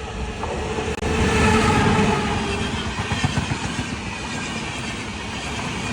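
Suryanagri Express train running along the track: a continuous rumble and rattle of wheels on rails that gets louder about a second in.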